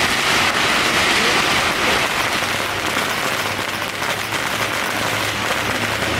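Strings of firecrackers going off in a dense, continuous crackle.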